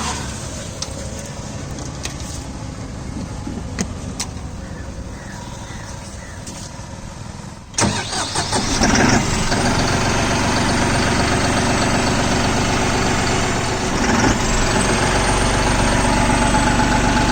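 New Holland 5620 CRDI tractor's diesel engine starting about eight seconds in and settling into a steady idle at about 1000 rpm. Before that a quieter engine-like running sound is heard.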